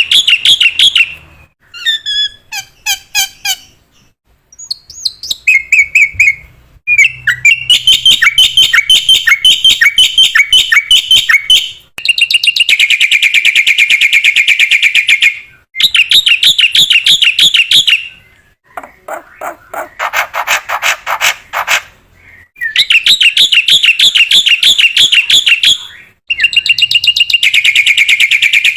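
Black-winged myna (jalak putih) singing loudly in full, vigorous song: phrases of rapid repeated notes and trills broken by short pauses, with a harsher, rasping chatter about two-thirds of the way through.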